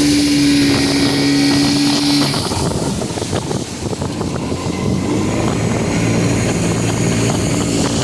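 Motorboat engine running. Its steady high tone drops away about two seconds in, leaving a lower, rougher engine sound with scattered knocks, as when the boat throttles back.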